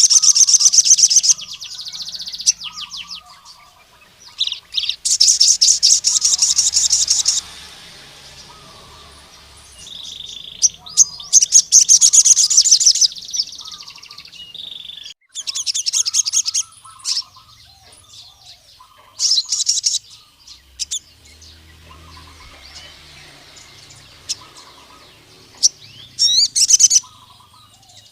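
Male crimson sunbird (sogon) singing in repeated loud bursts of rapid high trilling, each lasting one to three seconds with pauses between, a song used to challenge a rival male. Fainter, lower chirps from other birds sound underneath.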